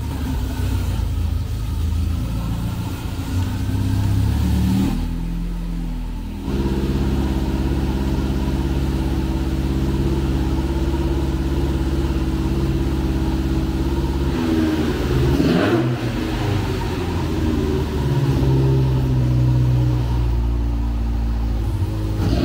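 Naturally aspirated engine of a tuned Fiat Uno running through intake trumpets. It is held at steady engine speeds, and its pitch steps down and back up a few times.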